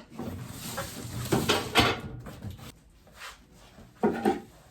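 Knocks and rustling of household things being handled and set down, a few sharper clunks among them.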